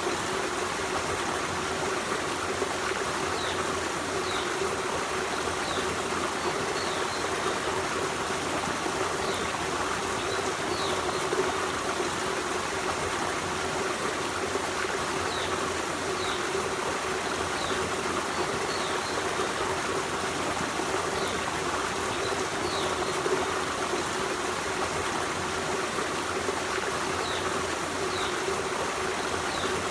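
Forest stream running, a steady rush and babble of flowing water.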